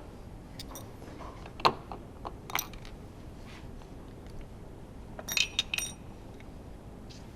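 Scattered light metallic clicks and taps of tools and engine parts being handled during disassembly. There is one sharp knock about a second and a half in, and a quick run of ringing clinks a little past five seconds.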